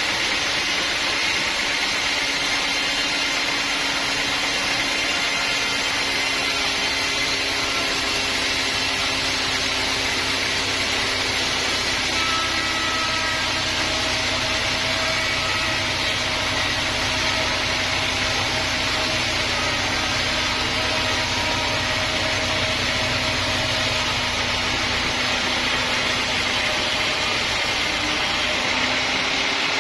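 Sawmill machinery running steadily: an even mechanical drone with a steady hum.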